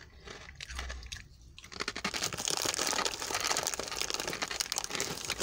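Pork scratchings being crunched and chewed: a few light bites, then dense crackling crunching from about two seconds in.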